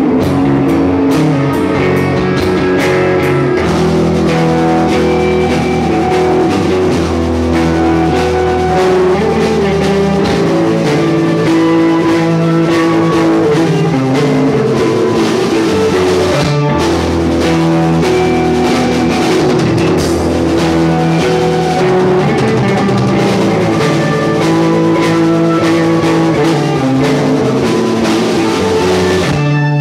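Rock music played by a band on electric guitar, bass and drum kit, loud and steady, with a momentary break about halfway through.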